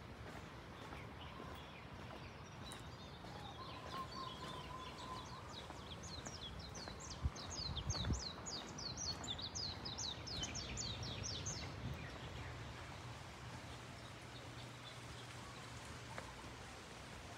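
Steady background noise with a songbird singing a fast run of short, high chirps, about four a second, for several seconds in the middle. A couple of low thumps come about halfway through.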